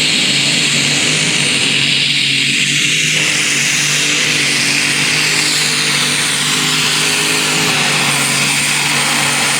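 Super stock pulling tractor's engine at full power hauling the sled down the track, holding a steady pitch, with a high steady whine over the engine note.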